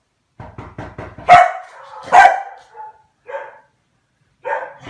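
A dog barking: two loud barks about a second apart, then a few quieter barks near the end. A quick run of soft taps comes just before the first bark.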